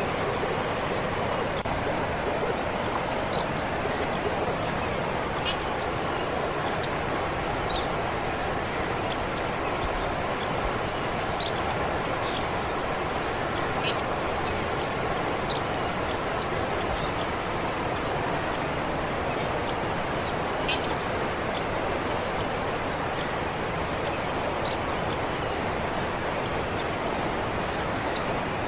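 Forest stream flowing steadily, with small birds chirping high and often over it in short, quick notes.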